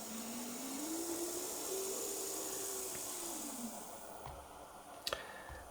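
Small electric motor of a digitally controlled model field-railway locomotive whining: the pitch rises as it speeds up, holds, then falls as it slows to a stop before four seconds in, over a steady hiss. A single sharp click follows near the end.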